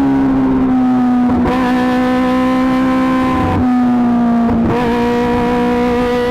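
Kawasaki ZX-25R's inline-four engine running at high revs through an Akrapovic GP titanium exhaust. Its pitch sags slowly, then shifts abruptly a few times with throttle changes.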